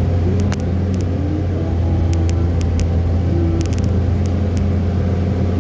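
Car driving: a steady low engine and road rumble, with a scatter of short light ticks.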